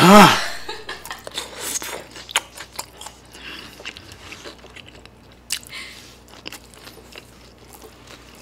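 A person chewing and biting a mouthful of food close to the microphone, with wet clicks and crunches. It opens with a short, loud vocal exclamation.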